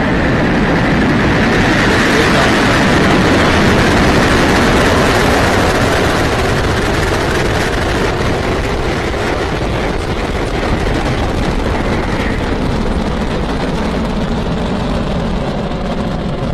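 Falcon 9 Full Thrust rocket's nine Merlin 1D engines at liftoff: a loud, steady, rumbling rocket noise that swells over the first four seconds, then slowly fades as the rocket climbs away.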